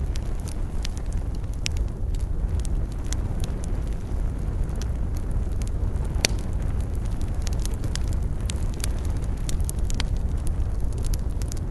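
Wood campfire burning, with irregular sharp crackles and pops over a steady low rumble; one louder pop about six seconds in.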